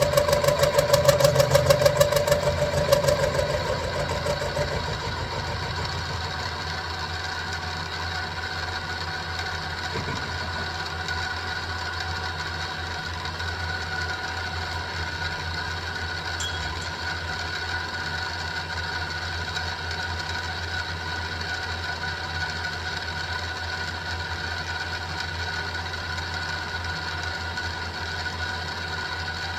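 Mini milling machine running while cutting 1045 steel: louder and rougher for the first few seconds as the cutter works the steel, then settling to a steady, even hum from the motor and geared head.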